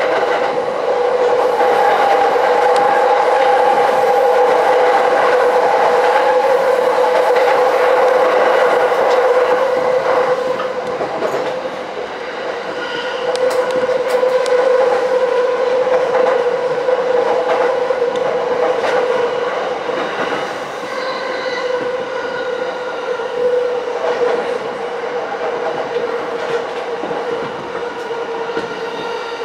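A Yamanote Line commuter train running, heard from inside: steady running noise with a held whine and a few wheel clicks, easing briefly about twelve seconds in.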